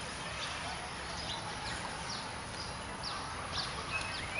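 Birds calling outdoors: short, high chirps that fall in pitch, recurring irregularly over steady background noise.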